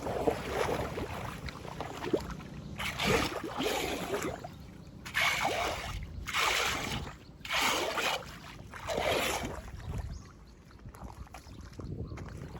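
Flood water splashing and sloshing in a run of about six strokes, roughly one every second or so, over a steady rush of moving water. The strokes stop near the end.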